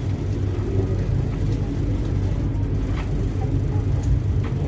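Steady low rumble of a moving passenger train heard from inside the coach, with a few faint clicks over it.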